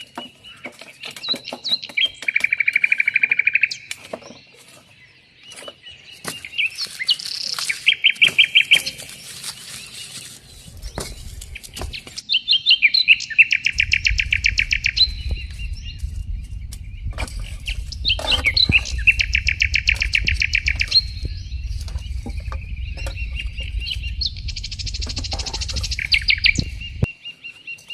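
Songbirds singing: repeated trilled phrases of fast, even notes, a new phrase every few seconds, over scattered faint clicks. A steady low rumble comes in at about eleven seconds and stops shortly before the end.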